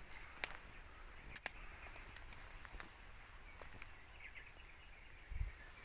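Irregular sharp clicks and snaps, with a few faint bird chirps about four seconds in and a dull low thump near the end.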